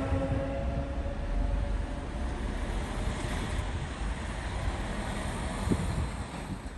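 Rushing noise of a train running through the station, the rush of wheels and air dying away near the end as the train moves off.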